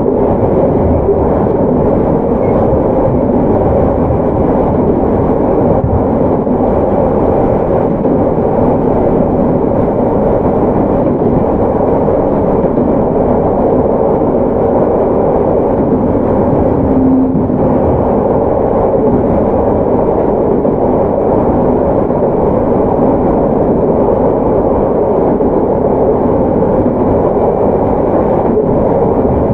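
Steady running noise inside a JR Hokkaido 731 series electric train car: wheels on the rails and the car body rumbling at speed. A short low tone sounds about halfway through.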